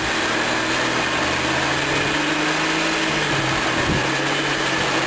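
Off-road vehicle engine running steadily over a constant hiss, its low pitch dropping slightly about halfway through.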